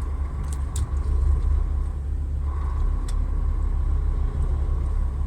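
Steady low rumble of a loaded semi-truck's engine and tyres heard from inside the cab, with a few brief faint ticks.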